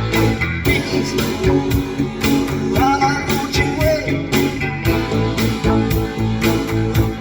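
A rock song's instrumental break, guitar over a steady drum beat and heavy bass, played back through a car audio system with Eton and Flux component speakers and a Rockford Fosgate subwoofer.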